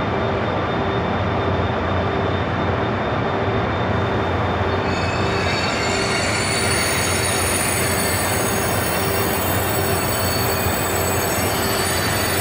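KTX-I high-speed train moving slowly along the platform as it departs: a steady loud rumble of wheels and running gear, with a low tone pulsing about twice a second. About five seconds in, thin high-pitched squealing tones join it.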